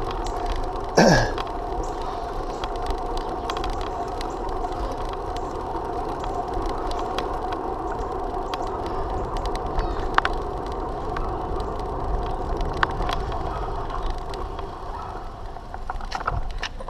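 Bicycle rolling along the road: steady tyre and drivetrain noise with a constant hum. About a second in there is a brief sound that sweeps down in pitch, and a few sharp clicks come later.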